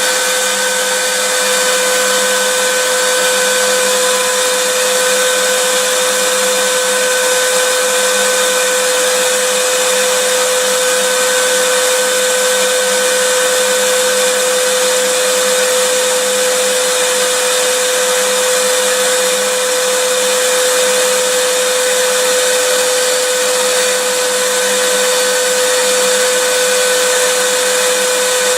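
Vacuum cleaner running steadily: a constant motor whine over a bright hiss of rushing air, with no change in speed.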